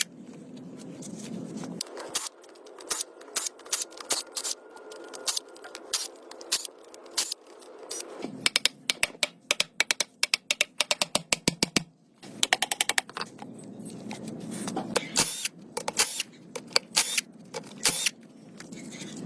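Workshop hand-tool work on metal parts: many sharp clicks and taps, with quick runs of rapid clicking in the middle.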